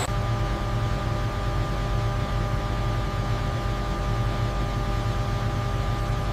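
Steady machinery hum: a constant low drone with several steady higher tones over an even hiss, unchanging throughout.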